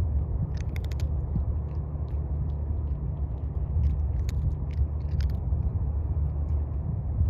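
Steady low outdoor rumble with scattered short, crisp clicks: a cluster about a second in and a few more between four and five seconds in.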